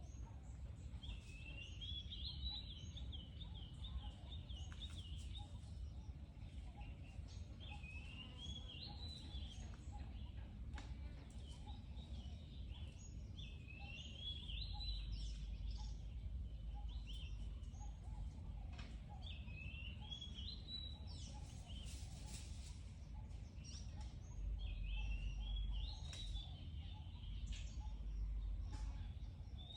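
A bird singing a short warbling phrase over and over, about every six seconds, above a steady low outdoor rumble with scattered clicks.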